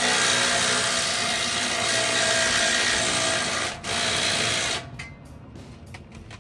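A power tool running at full speed, with a steady whine over loud hiss. It stops for a moment about four seconds in, runs again for about a second, then cuts off.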